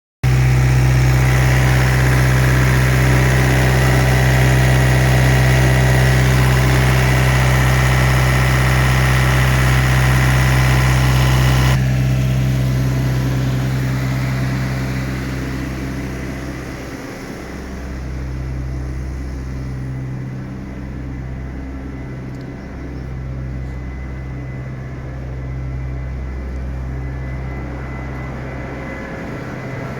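Heavy truck diesel engine idling with a steady low hum. About twelve seconds in the sound turns abruptly duller and somewhat quieter, and the low hum then swells and dips slowly.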